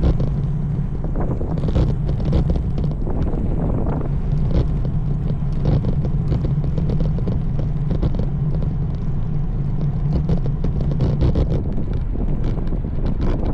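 Wind buffeting the microphone of a camera riding along on a road bike, over a steady low rumble, with frequent short crackles and taps.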